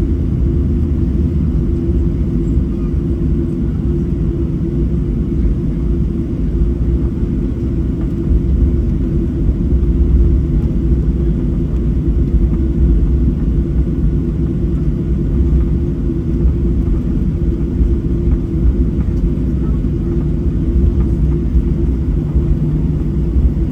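Boeing 737-700 cabin noise heard from a passenger seat: a steady low rumble from the CFM56 engines and airflow, with a constant hum over it.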